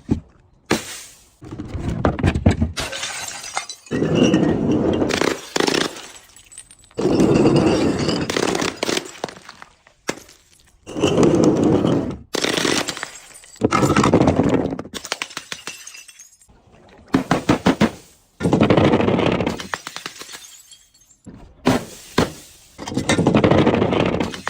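A series of objects being crushed, cracking and breaking in about ten loud crunching bursts, each one to two seconds long, with short pauses between them.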